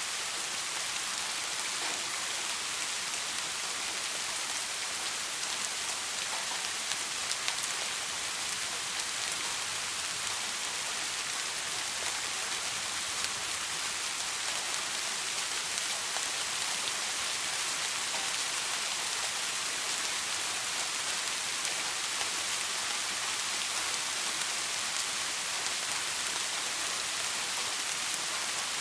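Soft rain falling steadily: an even hiss of many drops, with a few sharper single drop ticks and no thunder.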